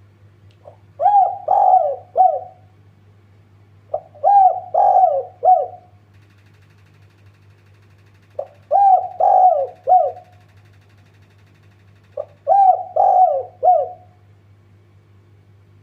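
Spotted dove (tekukur) cooing: four phrases of three or four notes each, spaced a few seconds apart, over a faint steady low hum.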